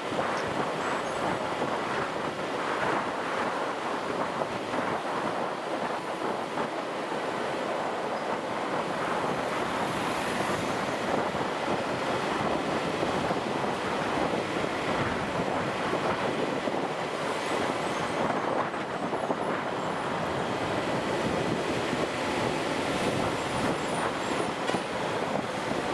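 Steady wind rush and road noise from a motorcycle under way, with no change in speed or gear.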